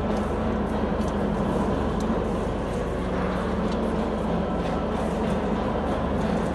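Glass mosaic production machine running steadily, with a constant hum, a fast fine ticking and scattered light clicks.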